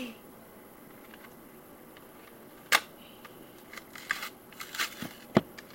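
Small handling noises: a single sharp click a little under three seconds in, then a scatter of light clicks and rustles over the last two seconds.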